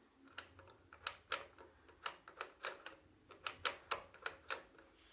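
Handling noise: a run of about fifteen light, irregular clicks and taps over a faint low hum.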